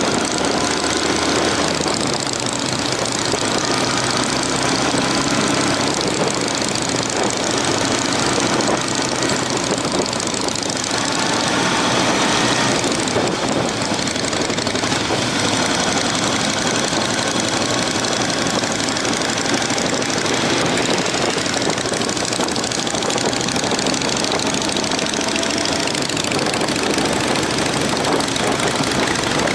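Honda CB750 motorcycle's inline-four engine running under way on the road, with a steady rush of wind noise over it. The engine pitch rises a couple of times as the bike accelerates, once near the middle and again near the end.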